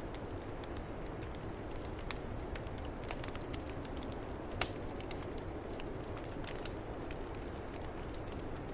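Wood fire crackling in a fireplace, with scattered sharp pops, one louder than the rest about halfway through, over a steady low rush of snowstorm wind.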